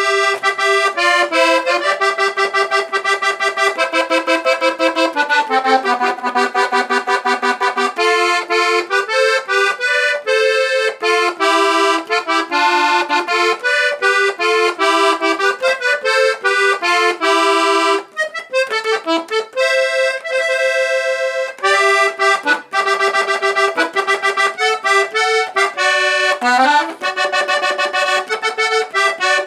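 Weltmeister accordion playing a melody of quick notes, a sound demonstration of the instrument.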